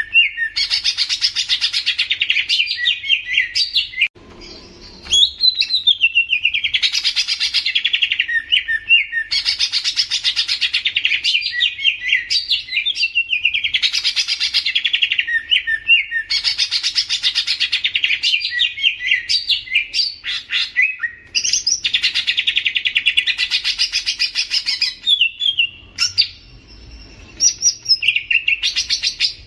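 Cucak ijo (green leafbird) singing: fast, high chirping phrases of about two seconds each, repeated again and again with short breaks between them.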